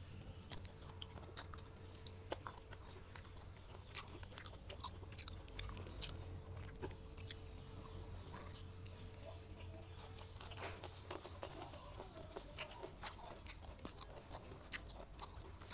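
Ripe jackfruit bulbs being eaten close to the microphone: wet chewing with many small, sharp mouth clicks, and the fruit's fibrous strands tearing as bulbs are pulled free.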